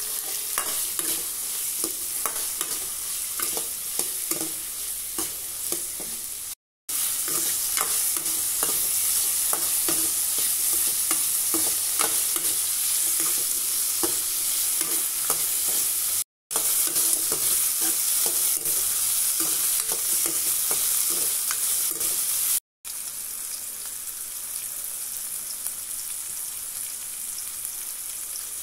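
Chopped vegetables sizzling in hot oil in a metal kadai, with a steel ladle scraping and clinking against the pan as they are stirred. The sizzle drops out briefly three times, and in the last several seconds it is quieter with little stirring.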